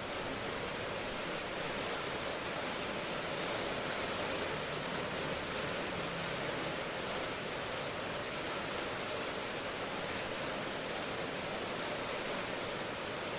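Steady rain ambience: an even, continuous hiss of falling rain.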